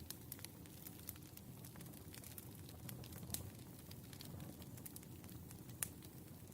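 Wood fire crackling: irregular small pops and snaps over a low, steady rumble of flames, with two louder pops, one just past halfway and one near the end.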